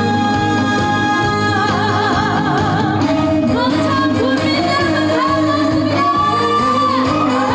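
A woman singing a trot song live over a band backing, holding one long note that breaks into a wide vibrato about a second and a half in, then moving on through the melody.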